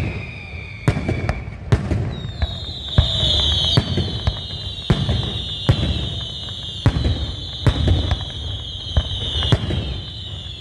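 Fireworks display: sharp bangs about once a second over a low rumble of booms. From about three seconds in, a high whistling tone sounds and slowly falls in pitch.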